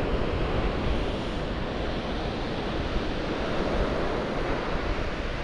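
Ocean surf with wind buffeting the microphone: a steady rushing noise with a low rumble and no detector tone standing out.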